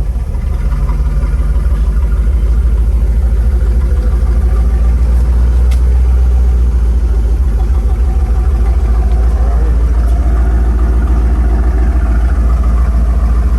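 A car engine idling steadily, with a deep, constant rumble.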